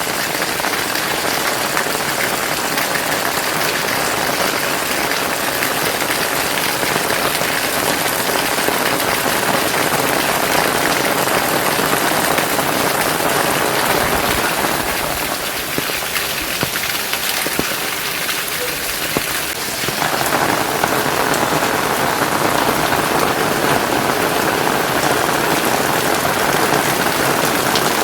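Heavy rain falling steadily, a dense even hiss that eases slightly for a few seconds midway before returning to full strength.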